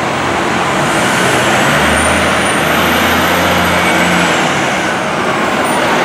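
Spartan Gladiator fire truck running close by, a loud steady engine and road noise with a low drone that swells in the middle.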